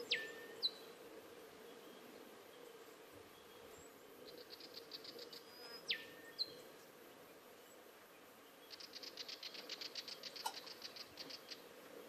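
Wild birds calling: two sharp whistles that sweep steeply down in pitch, each followed by a short note, and rapid high buzzy trills, the longest in the last few seconds.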